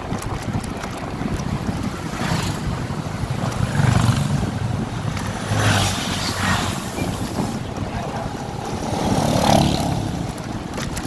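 Wind buffeting the microphone of a riding motorcycle, with engine and road rumble underneath, swelling louder three times.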